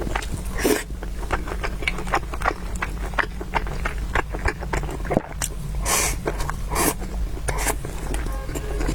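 Close-miked eating sounds: many quick wet smacks and clicks of chewing, with a few longer noisy bursts about a second in and again near six and seven seconds, over a steady low hum.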